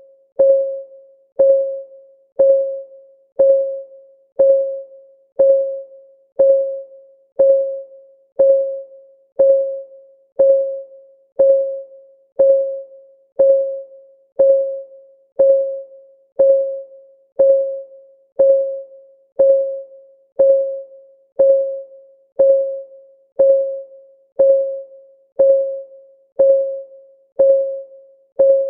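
Countdown timer's clock-tick sound effect: a short, pitched tick about once a second, each ringing briefly and dying away, in an even, unbroken rhythm.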